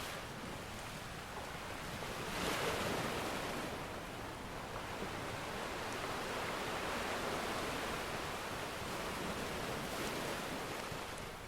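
Ocean surf: waves breaking and washing ashore, swelling about two and a half seconds in and again more slowly later. A few faint pops of a crackling wood fire sound underneath.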